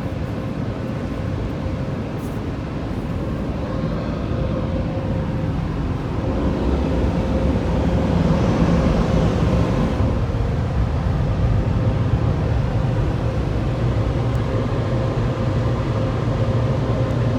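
Washworld High Velocity touchless car wash machinery running: a steady rushing noise with a constant hum and low rumble, getting louder about seven seconds in.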